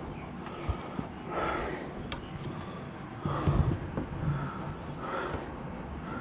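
Hand-tool work on timber: several short rasping strokes about a second apart, with a few sharp knocks.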